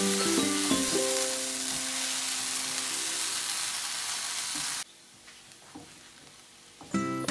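Food frying in oil in a pan, a steady sizzle that cuts off suddenly about five seconds in, under light piano music.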